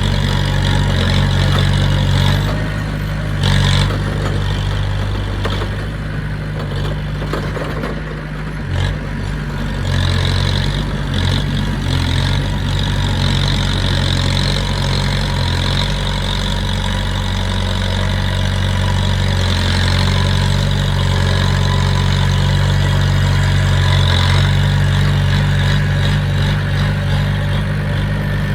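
Diesel engine of heavy earthmoving equipment running steadily at low revs, with a few brief louder moments in the first ten seconds.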